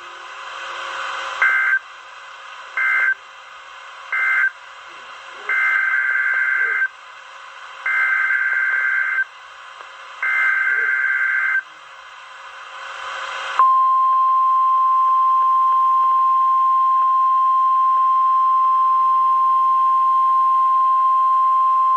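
NOAA Weather Radio heard through a receiver with a hiss behind it. First come three short bursts of shrill data tones, the end-of-message code. Then three longer bursts, the SAME alert header for the next warning. About two-thirds of the way in, the steady 1050 Hz warning alarm tone starts and holds.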